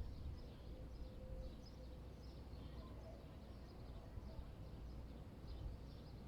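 Faint urban ambience: small birds chirping on and off over a steady low rumble of wind.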